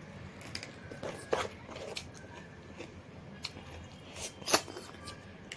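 Close-up mukbang eating sounds: chewing and crunching food, with scattered short clicks and a sharp crunch about a second in and a louder one near the end.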